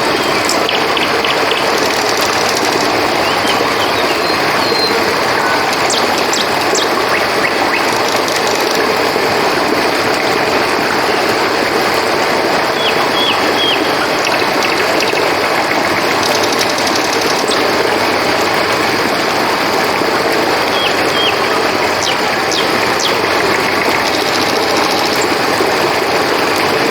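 Steady rush of flowing river water, with crickets chirping over it and occasional short high chirps.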